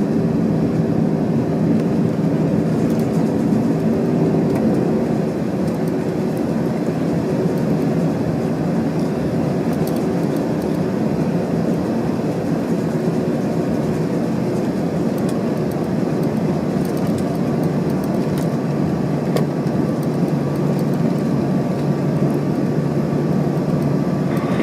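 Airbus A321-200 cabin noise heard from inside the passenger cabin during landing: a steady, loud rush of jet engines and airflow. A steady hum fades out about five seconds in.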